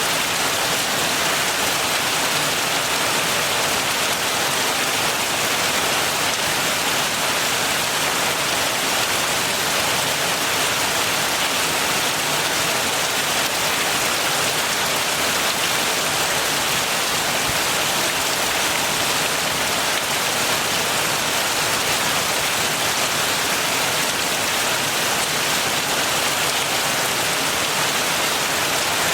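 Heavy rain falling steadily, an even hiss of rain on surfaces with no thunder or gaps.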